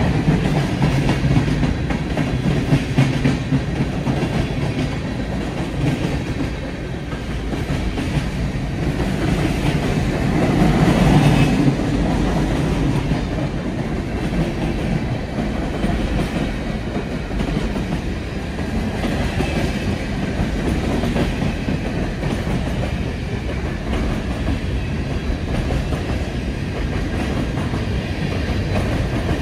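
A train rolling past close by, its cars running over the rails in a continuous rumble that swells briefly around a third of the way in.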